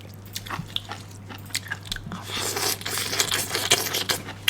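Close-up biting and chewing of crunchy pickled bamboo shoot, a run of crisp crackles that grows denser in the middle of the stretch.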